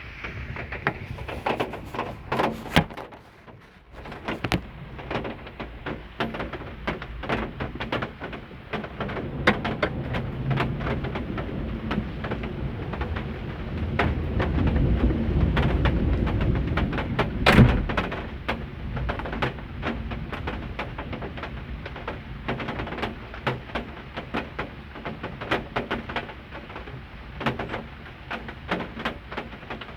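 A low rumble of thunder swells about fourteen seconds in and ends in one loud crack, over dense sharp tapping throughout. Doves coo in the background.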